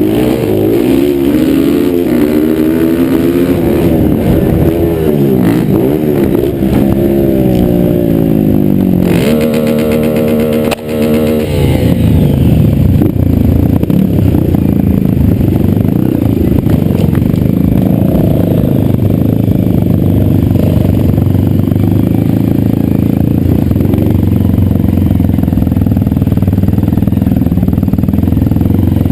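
Motocross dirt bike engines racing: one bike revs up and down through the gears for the first several seconds, then holds high revs briefly before a sudden drop about eleven seconds in. After that, a denser blend of several engines runs steadily at high revs.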